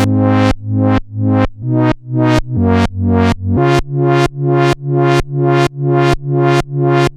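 Korg monologue analog monosynth playing a sequenced bass pattern of repeated notes, about two a second, each bright at the attack and then closing down as the filter shuts. The pitch steps up about halfway through, and the pattern stops abruptly right at the end.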